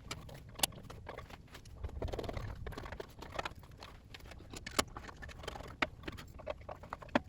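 Scattered light clicks and taps of metal parts and tools being handled while the bandsaw is put back together, a few sharper knocks now and then.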